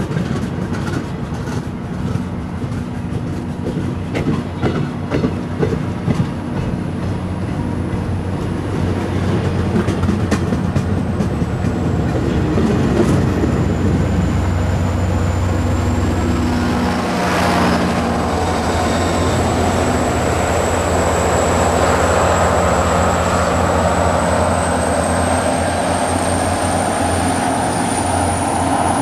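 MBTA commuter-rail bilevel coaches rolling past, their wheels clicking over the rail joints for the first several seconds before the sound settles into a steady rumble. A thin high whine dips and then rises again over it.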